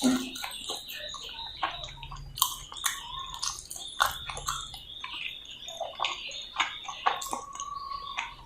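Close-up wet chewing and lip-smacking of roti and potato sabzi: irregular moist clicks and smacks, several a second.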